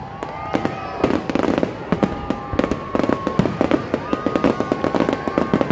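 Aerial fireworks display going off, with rapid overlapping bangs and crackles at an irregular pace.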